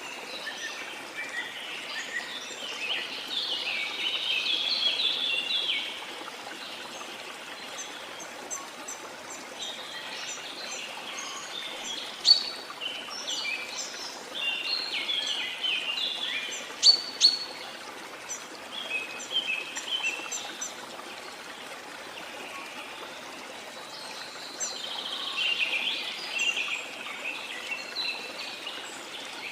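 Steady rush of a waterfall under tropical rainforest birdsong: busy chirping and trilling in three spells, with a couple of sharp, loud calls in the middle.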